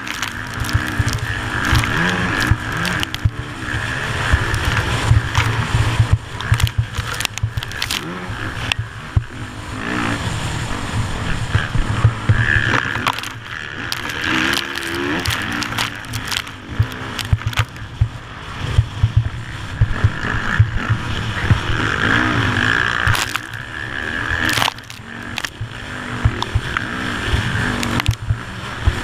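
Dirt bike engine revving hard, its pitch climbing and dropping again and again through the gears while riding through sand, with heavy wind buffeting and sharp knocks on the microphone.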